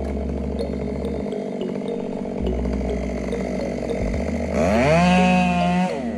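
Chainsaw running steadily, then revved hard about four and a half seconds in. It holds at high pitch for about a second and drops back near the end.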